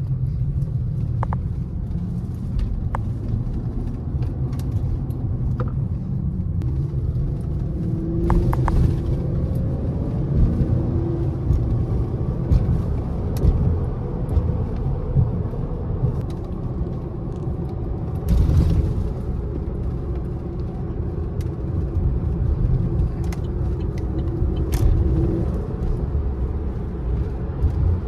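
Lifted Chevrolet Silverado pickup on 24-inch wheels driving, a steady low rumble of engine and road noise with a few short ticks, swelling briefly twice.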